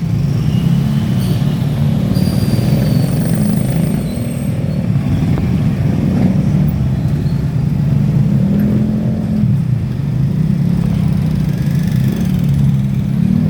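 Motorcycle engine running at a steady speed while riding, with a low, even hum and road rumble.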